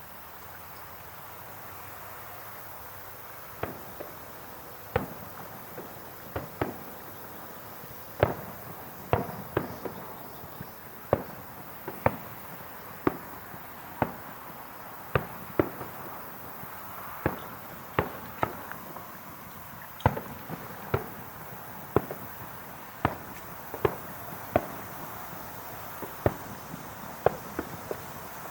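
Fireworks bursting in a steady run of sharp bangs, about one a second, starting a few seconds in over a steady background hiss.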